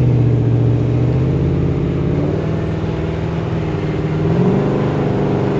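Holden Commodore's engine running with a lumpy idle, the pitch lifting slightly twice as the car pulls away.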